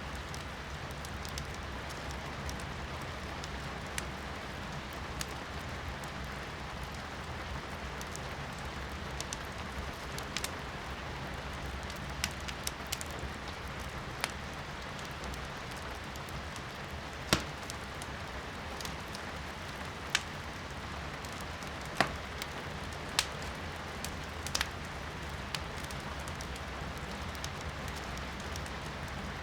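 Firewood burning in a fireplace, crackling with sharp, irregular pops, the loudest a few times in the second half. Under it is a steady hiss of rain heard from inside a room.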